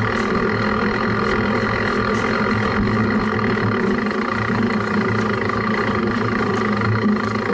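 Steady rumbling noise picked up by the camera mounted on the front of the cyclocross bike as the bike is moved along with its flat, sidecut front tyre. It is even throughout, with no distinct knocks.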